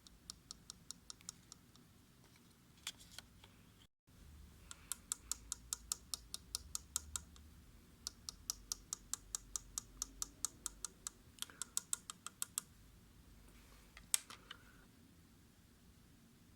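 Light, rapid tapping of a small feeding spoon, about six or seven taps a second in several short runs, as sea monkey grow food is shaken off it into the tank.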